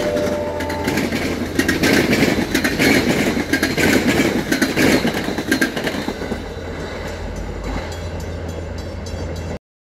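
MBTA commuter train passing: the horn's last note ends in the first second, then the passenger coaches' steel wheels rumble and knock on the rails. The noise fades as the train moves away and cuts off abruptly near the end.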